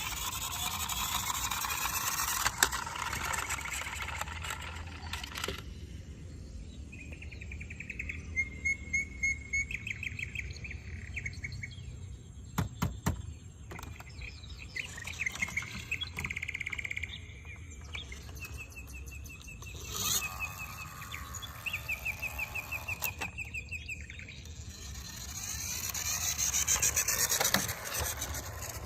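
Birds chirping in short, rapid trills, several in a row, over a steady hiss that grows louder near the end.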